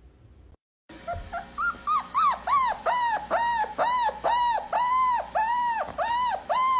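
A dog crying out in a long string of short, high-pitched whining cries, each rising and falling in pitch, about two to three a second. The cries start about a second in.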